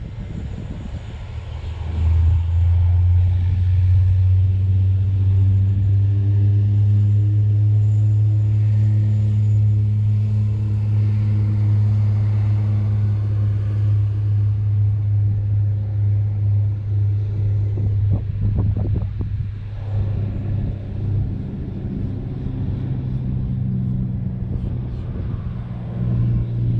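An engine running steadily at a low, even pitch. It comes up sharply about two seconds in and eases off after about twenty seconds.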